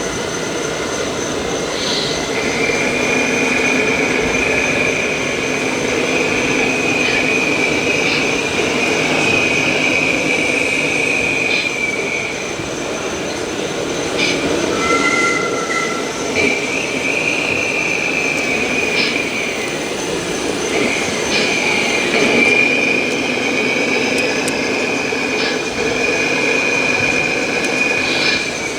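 High-pitched whine of RC model trucks' small electric motors and gearboxes, held for several seconds at a time, breaking off and starting again with slight rises in pitch, with light clicks over steady background noise.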